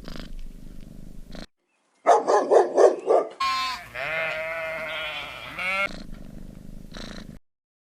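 Animal calls: a short, rapidly pulsing call about two seconds in, then a longer wavering call lasting a couple of seconds, before the sound cuts off near the end.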